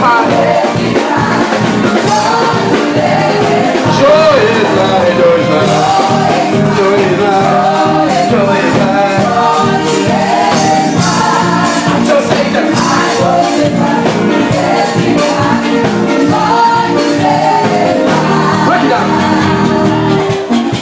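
Live gospel music: a voice singing a melody over a full band accompaniment.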